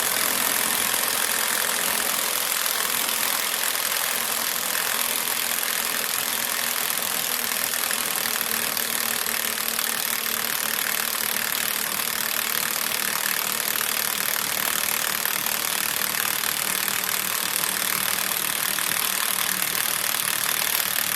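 Cordless impact wrench hammering without a break on a bearing puller's forcing screw, then stopping suddenly just after the end; the puller is not moving the stuck center bearing, and its user thinks the puller has about had it.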